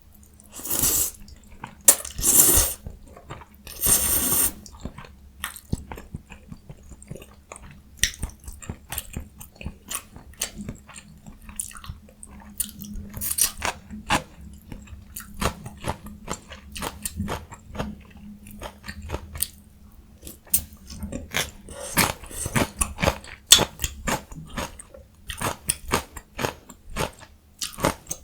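Close-miked eating of jjajang ramyun noodles and young summer radish kimchi: chewing and crunching, with many small clicks. There are three longer, louder bursts in the first five seconds.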